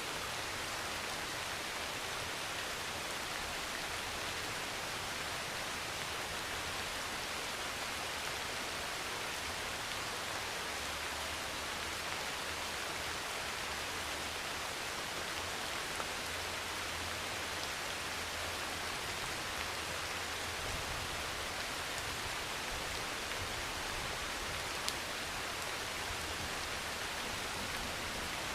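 Heavy rain pouring steadily on a metal roof, with a few sharper single drop ticks.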